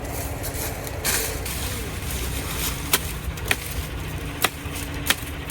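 Machete chopping sugarcane stalks: several sharp strikes at uneven intervals, most of them in the second half, over a steady low rumble.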